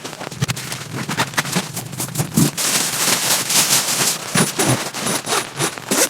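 Rain falling, with heavy drops tapping irregularly and densely on a hard surface.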